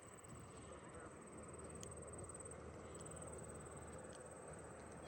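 Insects trilling steadily, a faint high-pitched pulsing buzz, over a soft outdoor background hush with a couple of small clicks.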